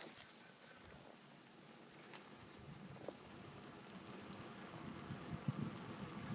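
Crickets chirping in short pulses about twice a second over a steady high insect hiss, with a low rumble building through the second half.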